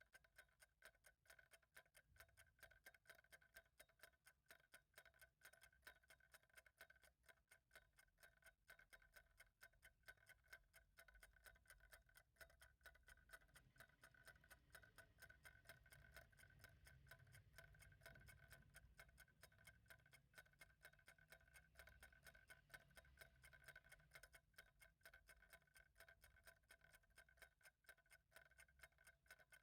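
Clock ticking faintly and evenly, with a faint low rumble underneath.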